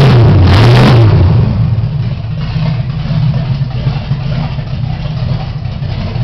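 Chevy 350 small-block V8 running through open Hedman headers with no exhaust pipes. It is blipped once in the first second, then drops back to a steady idle about a second and a half in. This is the engine's first run.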